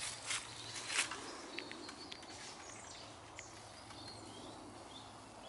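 Faint bird chirps over a quiet outdoor background, with two short crunches in the first second.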